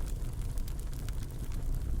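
Wood fire burning in a fireplace: a steady low rumble with scattered light crackles.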